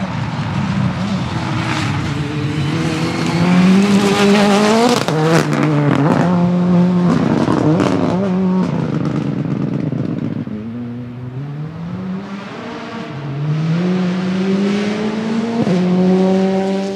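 Rally car engine accelerating hard through the gears, its revs climbing, dropping at each shift and climbing again several times.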